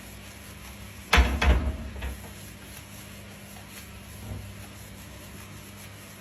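Two loud knocks about half a second apart, a little over a second in, followed by a fainter knock a few seconds later.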